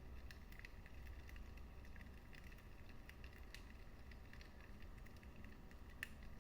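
Fire in a fireplace crackling softly: a steady scatter of small pops and ticks over a low rumble, with one sharper pop near the end.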